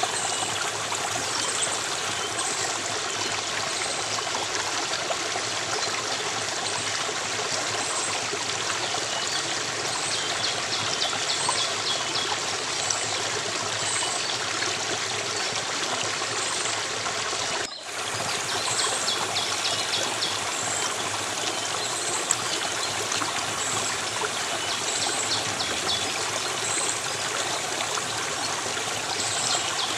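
A stream or small cascade flowing steadily, with a high chirping repeated at even intervals over it. The sound drops out briefly a little over halfway through.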